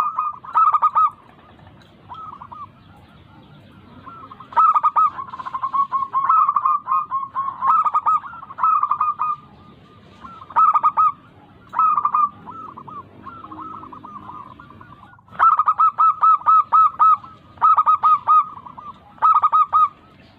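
Zebra dove (perkutut) cooing: loud phrases of quick, repeated ringing notes, broken by short pauses, with the longest run of notes about five seconds in and another near fifteen seconds in.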